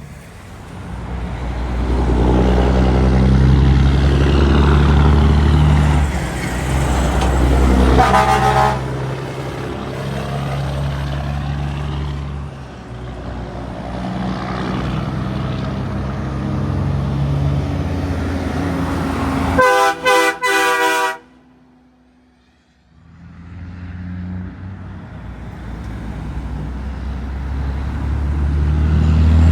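Trucks passing close on a highway, their engines swelling and fading. A short horn blast about 8 seconds in and a longer, stuttering horn blast around 20 seconds that cuts off abruptly, then another truck building up near the end.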